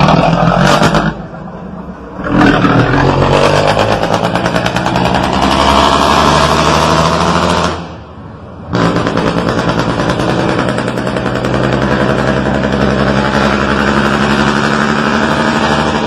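Scania 113 truck's six-cylinder diesel engine running and revving under load, its note dropping away briefly twice: about a second in and again around eight seconds in.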